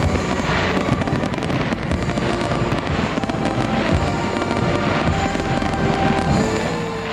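Fireworks bursting and crackling in dense, rapid succession, with the show's music playing underneath.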